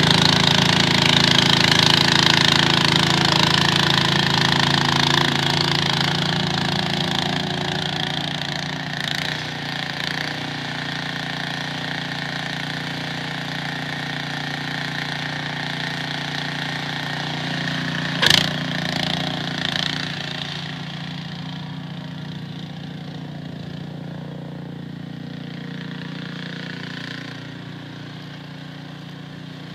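Small engine running steadily, fading over the first several seconds, with one sharp knock about eighteen seconds in.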